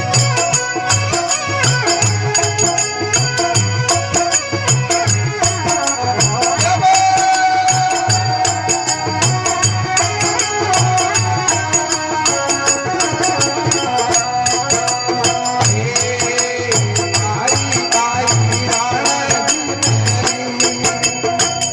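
Instrumental passage of a Rajasthani folk bhajan: a steady, rhythmic drum beat with jingling, rattling percussion and a sustained melody line over it.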